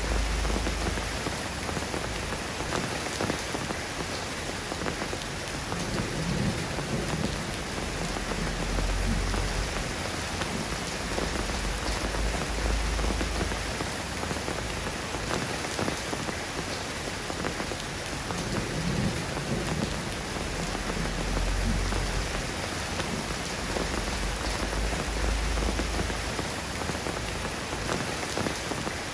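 Steady rain falling, with two long, low rolls of thunder, one starting about five seconds in and another just after the midpoint.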